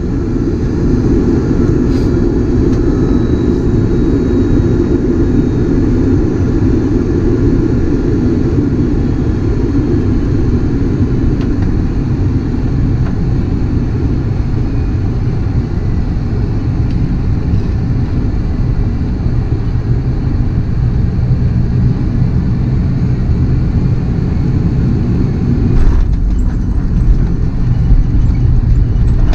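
Airbus A330-300 cabin noise heard from a passenger seat: a steady, dense rumble of engines and airflow. About 26 s in there is a click, and the deep rumble grows louder and stays so to the end.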